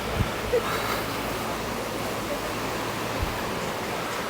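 Steady rushing seaside ambience, wind and distant surf blending into one even hiss, with two short low thumps, one just after the start and one about three seconds in.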